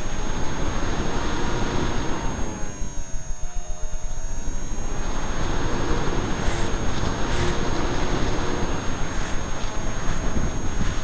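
Skyartec Skyfun's brushless electric motor and 7x6 propeller whining over heavy wind rush and buffeting on the onboard camera's microphone. About two seconds in the motor pitch sinks as the throttle comes back, then rises again about five seconds in.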